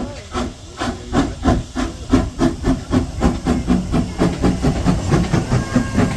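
Steam exhaust beats of a National Coal Board 0-6-0 tank engine working under steam, with steam hiss. The chuffs quicken slightly, from about three to about four a second.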